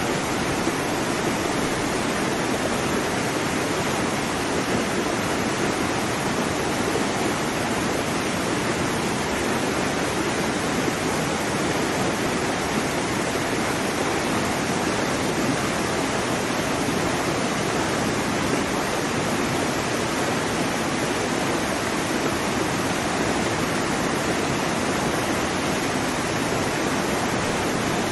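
Waterfall: water falling and cascading, a steady, unbroken rush.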